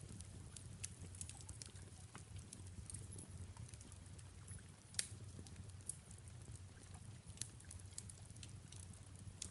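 Faint fireplace crackling over a soft rain hiss and a steady low rumble, with scattered sharp pops, the loudest about five seconds in.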